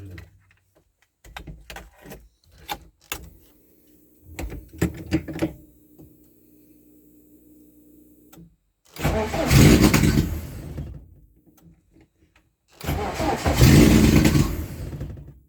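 Freshly reassembled car engine cranked twice, each time catching for about two seconds and then dying: it starts and stalls. A few clicks and knocks and a steady low hum come before the first attempt.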